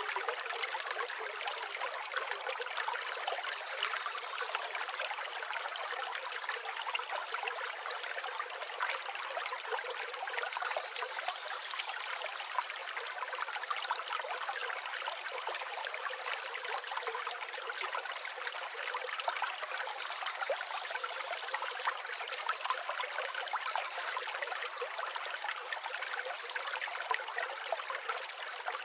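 River water flowing in a steady, even rush with no low rumble. A few faint, brief bird calls come through the water noise.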